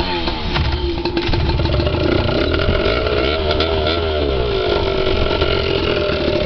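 Small dirt bike engine running, its revs rising and falling unevenly.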